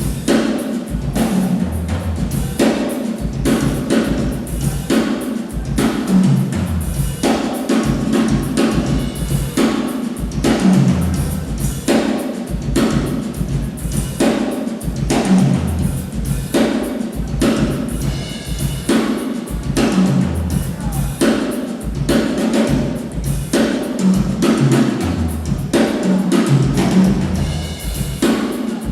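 Drum kit played non-stop in a sound check: fast, dense strokes on bass drum, snare and toms, with low sustained bass notes underneath.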